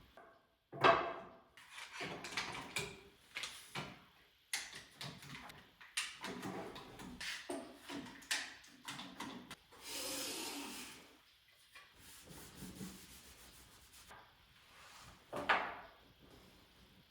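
White oak boards being handled in a workshop: a sharp wooden knock about a second in, then a run of short knocks and scrapes as pieces are moved. A longer sliding rub comes around the middle, and another knock near the end.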